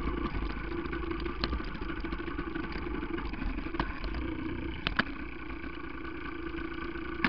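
Two-stroke single-cylinder engine of a 1982 Yamaha 175 dirt bike running at a steady, even speed. A few sharp clicks sound over it, two of them close together about five seconds in.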